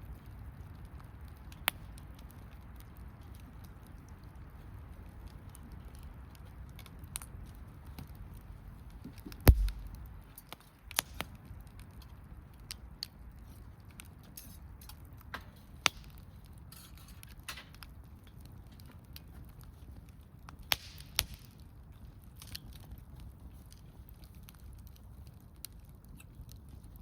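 Wood campfire crackling, with sparse sharp pops and snaps over a low, steady background. About nine and a half seconds in comes one loud pop with a low thud, and a quick double snap follows near the end of the second third.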